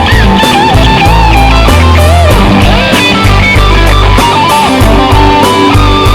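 Rock music with a melodic electric guitar line over bass and drums, a steady beat and no singing.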